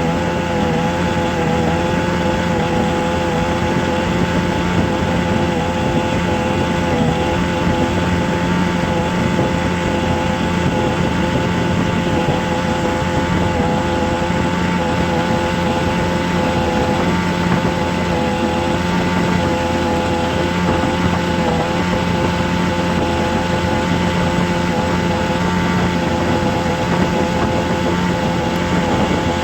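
A steady, unchanging droning hum: several held tones over a rushing noise, like a running engine or machine.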